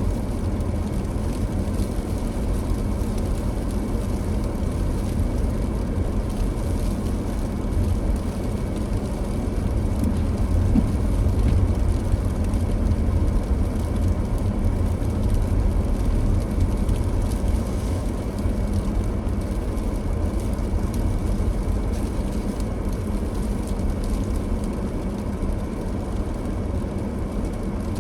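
Car driving on a snow-covered road: a steady low rumble of engine and tyre noise, growing a little louder partway through.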